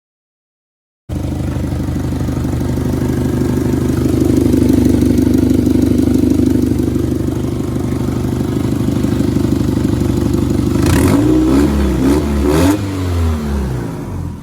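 Subaru Legacy GT's single-turbo-converted flat-four engine running steadily, then revved in about three quick blips a little after ten seconds in before settling back down.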